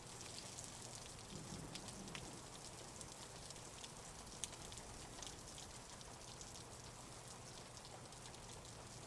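Faint steady rain with scattered light ticks of drops, under a faint low hum.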